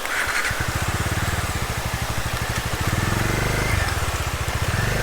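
Bajaj Dominar 250's single-cylinder engine starting and running, its exhaust beat getting louder and higher about three seconds in as it pulls away. Steady rain hiss runs behind it.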